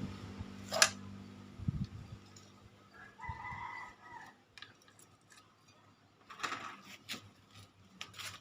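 Two-stroke motorcycle engine dying away in the first couple of seconds, then scattered sharp clicks and knocks, with a short chicken call about three seconds in.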